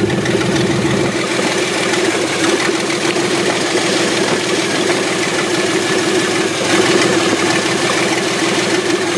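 Chevrolet Astro van's 4.3 L V6 idling steadily with the exhaust disconnected, so the engine's firing is heard unmuffled.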